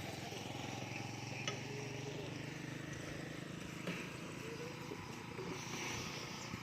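Small motorcycle engine running steadily at low speed, with a couple of faint clicks.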